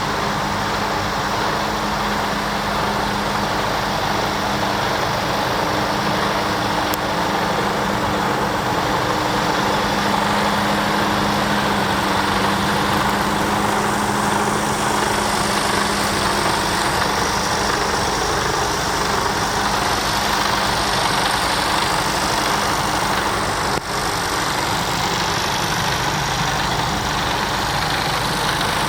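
Mercedes-Benz Actros tractor unit's diesel engine idling steadily.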